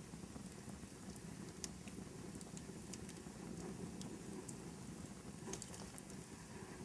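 Wood fire burning in a fireplace: a steady low rumble with scattered sharp crackles and pops, including a quick cluster of them about five and a half seconds in.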